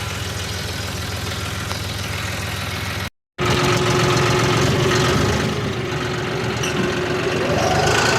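A vehicle engine running steadily. The sound cuts out for a moment about three seconds in, then an engine runs louder with a steady whine.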